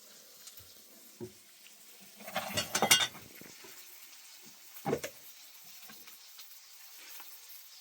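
Objects being handled and set down: a short flurry of clattering about two and a half seconds in, then a single knock near five seconds, with a smaller knock a second in.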